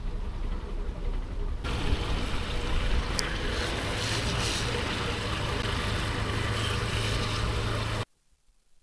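Motorbike on the move in the rain: a steady rush of wind and road noise over a low engine hum, growing louder and brighter a couple of seconds in and cutting off abruptly about eight seconds in.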